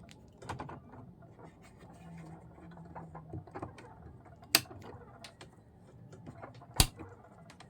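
Faint mechanical handling clicks on an ADC 1600DD turntable, then two sharp switch clicks, the second the louder, as it is switched from 45 to 33 rpm.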